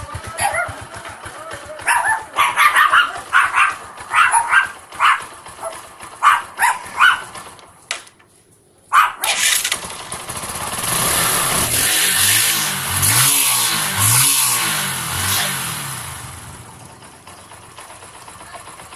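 Kawasaki Rouser 135LS motorcycle engine idling while a dog barks repeatedly over it. After a short break, the engine is revved up and down several times, then settles back down.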